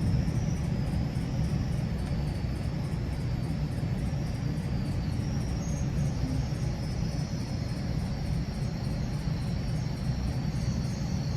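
GO Transit commuter train under way: a steady low rumble of the running train, with a faint high whine that wavers above it.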